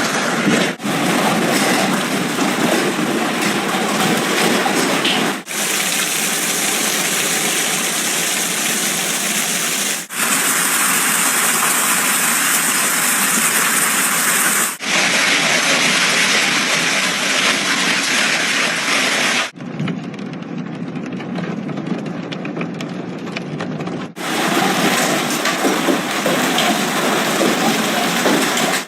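Hailstorm with heavy rain, hailstones and rain pelting down in a dense, steady noise over several short clips that cut about every five seconds. One stretch past the middle is quieter and duller than the rest.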